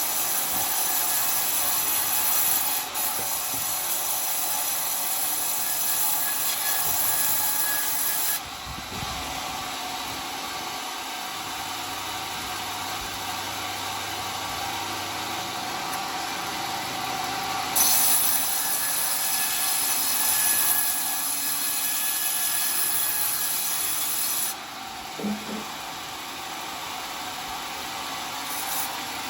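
Homemade sawmill's circular blade cutting through a coconut palm log with a steady sawing noise. The high hiss drops away twice for several seconds, about a third of the way in and again near the end.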